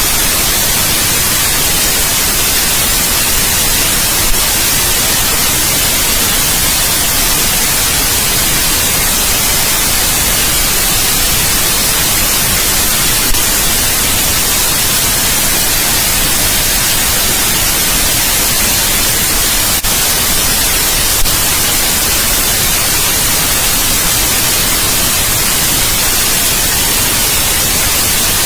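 Steady white noise: an even, unchanging hiss across the whole range, brightest in the highs. Three faint clicks break it briefly.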